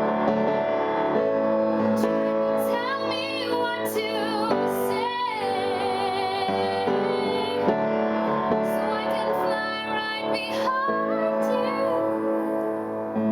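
A woman singing a slow ballad over her own piano accompaniment, holding several notes with vibrato, recorded through a camera's built-in microphone.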